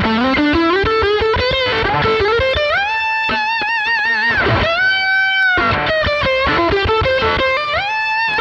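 Electric guitar played through a Fractal Audio FM9 amp-modeler preset, a single-note lead line. It climbs in a quick run, then holds long notes with string bends and wide vibrato in the middle, then moves on through more bent phrases.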